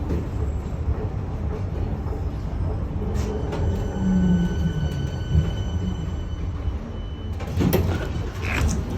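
Inside a KTM-31 tram while it runs: a steady low rumble, with a thin electrical whine in the middle, then a few clicks and knocks near the end.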